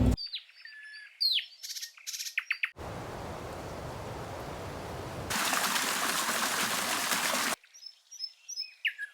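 Birds chirping and calling in short falling notes. A steady rushing noise cuts in abruptly about three seconds in, gets louder and hissier around five seconds, then cuts off suddenly, and the chirping returns near the end.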